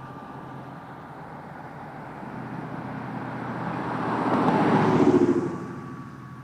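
Dodge Charger Scat Pack's 392 HEMI V8 exhaust, with Vibrant 1142 resonators in place of the mid mufflers, as the car drives past. It grows louder over a few seconds, is loudest about five seconds in, then drops away quickly.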